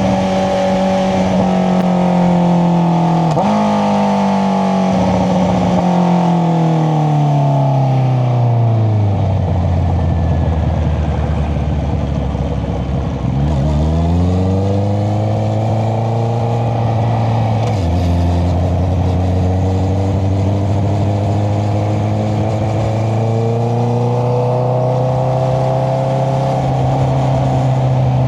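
Honda CBR650R inline-four through an aftermarket Akrapovič exhaust, on the move. The engine note falls as the bike slows, with a shift about 3 seconds in. It runs low for a few seconds, then rises again as the bike pulls away, with another gear change about two-thirds of the way through and a gentle climb in revs at the end.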